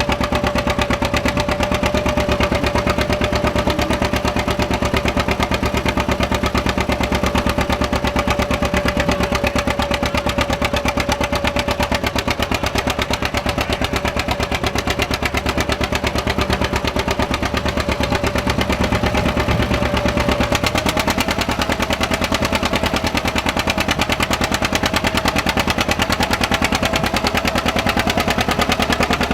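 John Deere two-cylinder tractor engine running with its fast, even exhaust beat, the typical "Johnny Popper" popping, and a steady whine above it that rises a little about two-thirds of the way through.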